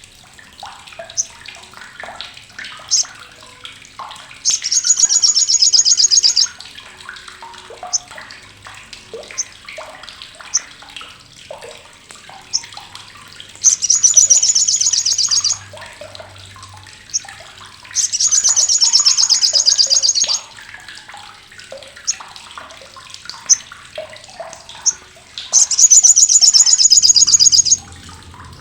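Olive-backed sunbird (sriganti, sogok ontong) giving its loud, harsh, high rattling chatter in bursts of about two seconds, four times, with single sharp chips in between.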